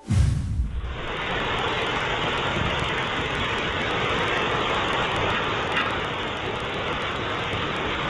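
Rain falling steadily, an even hiss, with a brief low rumble in the first second.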